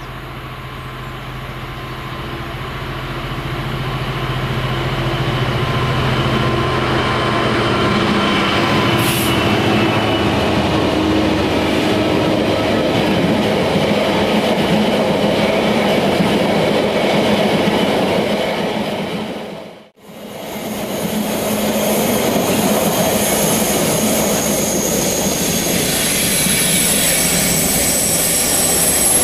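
Freight train hauled by a Class 66 diesel locomotive passing close by: the loco's engine note grows over the first few seconds, then a long run of wagons rolls past with steady wheel-on-rail noise and high wheel squeal. About two-thirds of the way through, the sound fades out briefly and comes back as the same kind of passing train, with squealing wheels.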